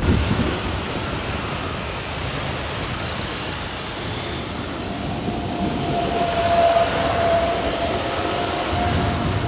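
Jet airliner engine noise: a steady rumble with a faint, steady whine coming in about halfway through.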